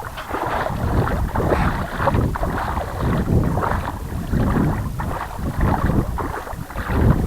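Legs wading through shallow water, splashing and sloshing in uneven surges about once a second, with wind buffeting the microphone.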